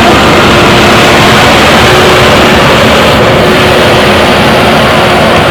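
JCB backhoe loader's diesel engine running loud and steady at close range.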